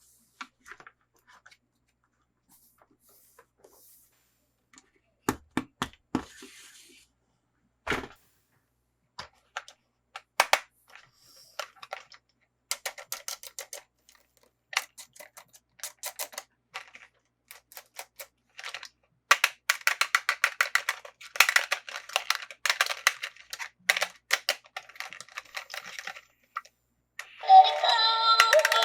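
Small, sharp clicks and taps of plastic toy pieces and packaging being handled, sparse at first, then coming thick and fast through the second half. Music with synthesized singing starts near the end.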